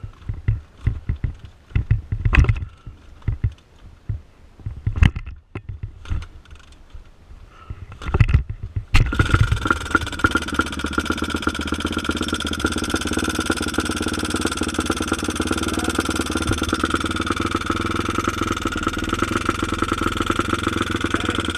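Dirt bike engine being kicked over with a run of irregular thumps, then catching about nine seconds in and running steadily at an even idle, then cutting off suddenly near the end.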